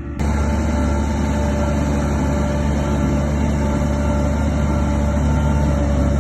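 Heavy diesel earthmoving machinery running steadily under load. It comes in abruptly just after the start and then holds an even level.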